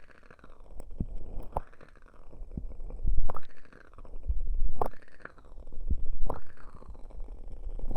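Ear cupping on a binaural dummy-head microphone: about five slow, rhythmic presses, roughly one every one and a half seconds. Each one is a muffled, rumbling whoosh whose hollow resonance rises and then falls as the cupping closes and opens, with a sharp click as each press lands.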